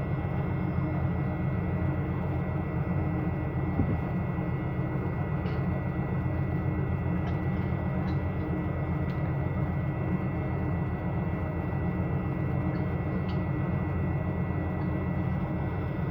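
Steady low machinery drone with a few constant tones above it, and several faint ticks.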